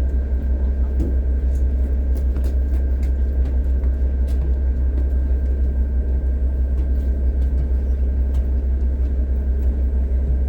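Tour boat's engines running with a steady low rumble, with a faint steady whine above it.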